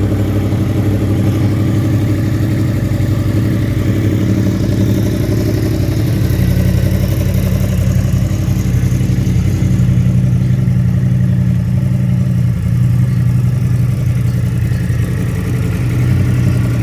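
Yamaha R1 sport bike's inline-four engine idling steadily.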